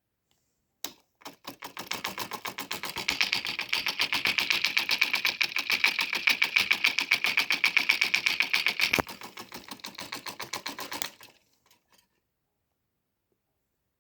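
Homemade electric motor running with a rapid, even clicking of about ten clicks a second. It starts about a second in and grows louder, drops back about nine seconds in, and stops about two seconds later.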